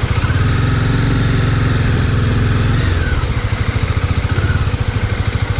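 Single-cylinder engine of a Bajaj Dominar 400 motorcycle running with an even low thump, held a little above idle for about three seconds and then dropping back to idle.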